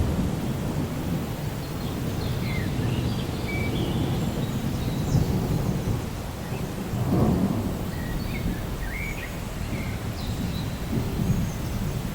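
Rainforest ambience: a steady low rumble of thunder with rain, swelling about seven seconds in, and scattered short bird chirps and whistles above it.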